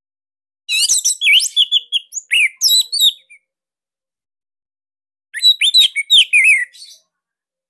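Orange-headed thrush (anis merah) singing two loud phrases of quick, varied whistles and trills, the first about 2.5 seconds long and a shorter one about two seconds later.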